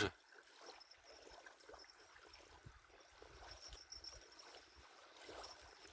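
Faint lakeside ambience: irregular low wind rumble on the microphone and light lapping of small waves.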